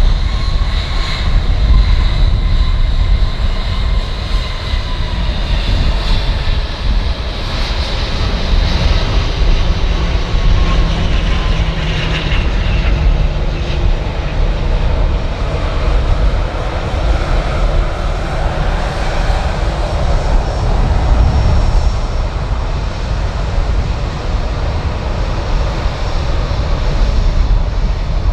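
Jet airliner's engines running loudly on the runway: a continuous deep rumble and roar, with high whining tones in the first half that fade and shift in pitch.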